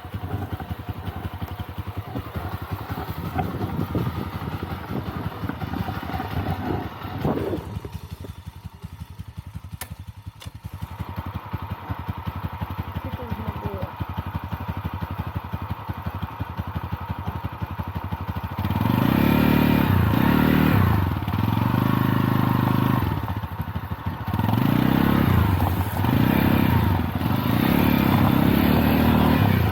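Lifan Xpect motorcycle engine running at a steady idle, then revving up and down several times, louder, from about two-thirds of the way in.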